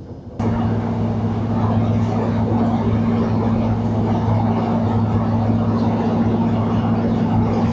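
Class 156 diesel multiple unit's underfloor diesel engine running steadily under power, a loud drone with a steady low hum over wheel and track rumble. It cuts in suddenly about half a second in.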